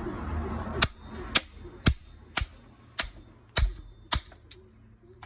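A run of sharp knocks, about two a second, eight in a row, with a weaker last one, from work on a Kärcher K330 pressure washer's pump head to free a stuck valve.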